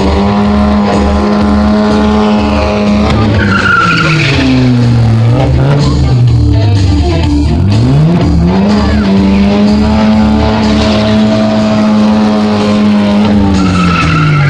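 Stunt car engine held at high revs, easing off about four seconds in, then revving up again and held until it drops just before the end, with tyres squealing briefly as the revs fall.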